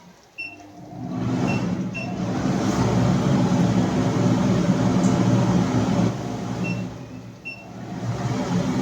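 A machine's motor starting up and running with a steady low hum, dipping briefly and picking up again near the end, with a few short high chirps now and then.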